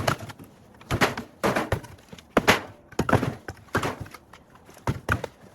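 Split firewood pieces knocking together as they are tossed and stacked, a hollow wooden clunk roughly every half second to second, about a dozen in all.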